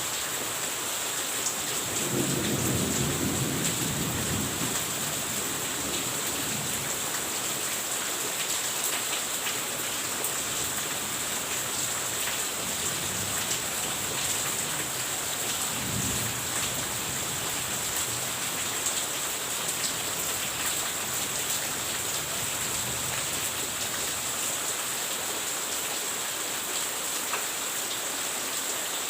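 Steady heavy rain falling, with a low rumble of thunder swelling about two seconds in and a shorter, fainter rumble about halfway through.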